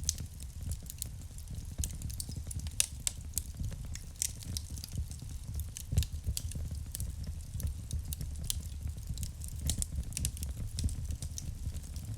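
Wood fire burning in a fireplace: irregular crackles and sharp pops over a steady low rumble of the flames, with louder pops about three and six seconds in.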